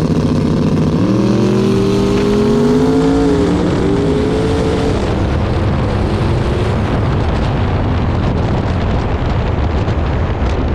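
Drag-racing car engines launching and accelerating hard, rising in pitch and dropping back at a gear shift about three and a half seconds in, then fading into a steady rumble as the cars run away down the track.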